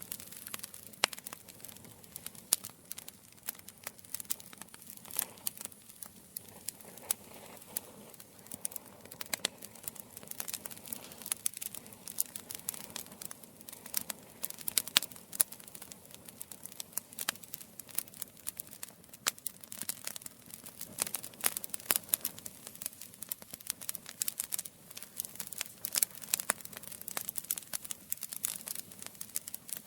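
Campfire burning, its wood crackling and popping in quick irregular snaps over a soft steady hiss.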